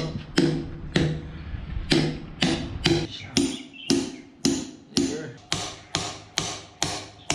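Steady rhythmic knocking: sharp strikes about twice a second, each with a short, low ringing tail, as of an object being struck repeatedly while it is worked.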